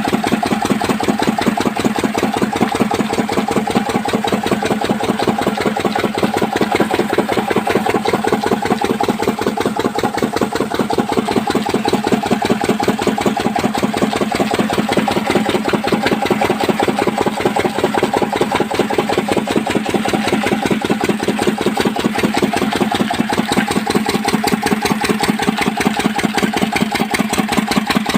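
Old Lister stationary diesel engine running steadily at a constant speed, with an even, rapid firing beat.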